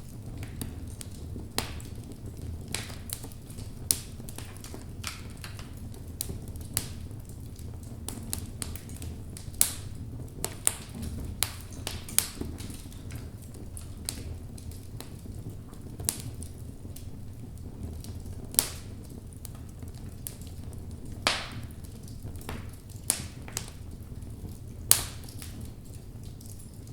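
Logs burning in a fireplace: a low steady rumble of flames with irregular wood crackles and a few louder pops.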